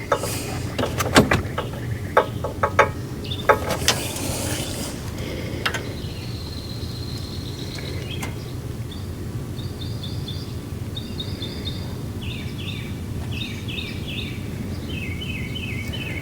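Several sharp clicks and knocks in the first few seconds, as parts are handled. A small bird then chirps in quick repeated high notes through the second half, over a steady low hum.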